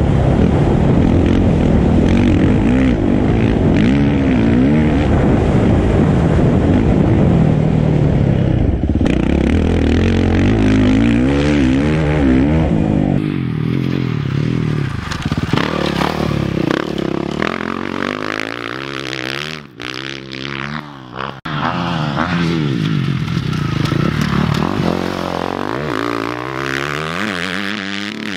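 Motocross dirt bike engine running hard, its pitch rising and falling again and again as the rider revs and shifts. The sound drops away briefly a couple of times about twenty seconds in.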